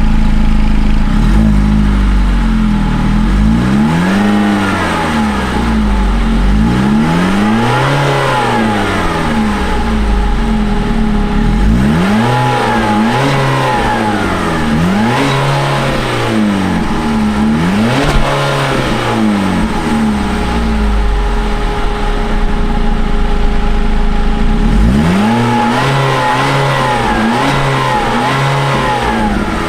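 2018 Ford EcoSport SES's 2-liter naturally aspirated direct-injection inline four-cylinder engine being revved in place: a series of throttle blips, each pitch rising and falling back to idle. It settles to a steady idle for a few seconds, then gives a final run of quick blips near the end.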